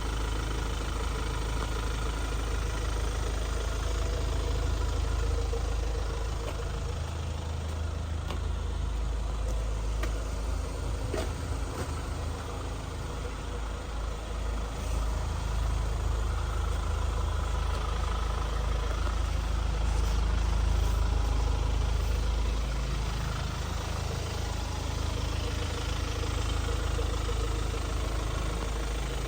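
Hyundai Palisade's 2.2-litre turbo diesel engine idling steadily.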